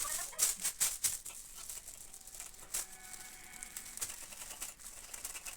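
Irregular rattling and clicking, densest in about the first second and sparser afterwards.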